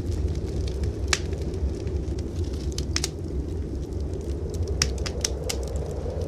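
Wood fire crackling in a fireplace: sharp, irregular pops, with a quick run of them about five seconds in, over a steady low rumble.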